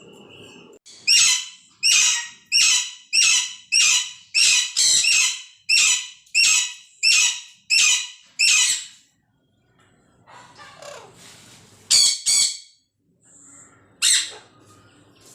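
Green parrot calling: a rapid run of about fifteen short, high calls, roughly two a second, then after a pause a quick pair of calls and one more near the end.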